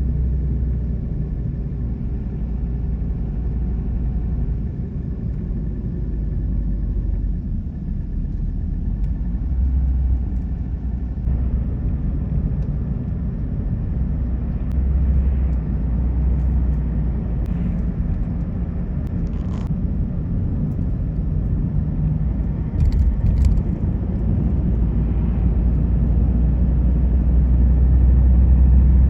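A car driving along a road: a steady low rumble of engine and tyres, with a couple of faint clicks past the middle.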